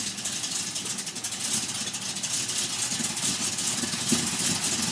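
1973 Camaro Z28's V8 engine running for the first time after the project car's rebuild, a loud, rapid, even firing beat.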